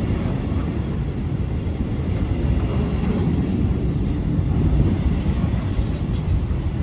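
Train running at speed, a steady low rumble.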